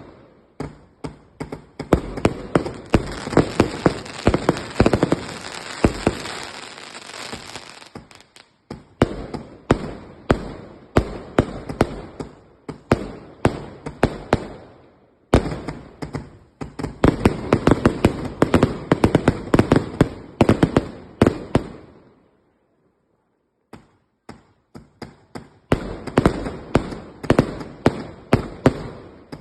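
Home fireworks going off in rapid volleys of sharp bangs and crackles, in dense runs. A short silence falls about twenty-two seconds in, then the bangs start again.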